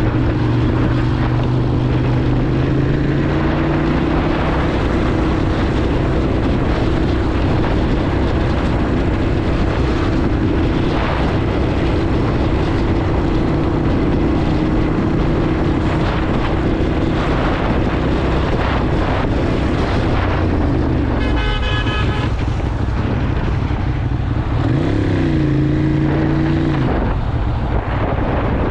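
Motorcycle engine running at cruising speed under wind rush, picking up revs about three seconds in and revving up and back down near the end. A horn sounds for about a second and a half about two-thirds of the way through.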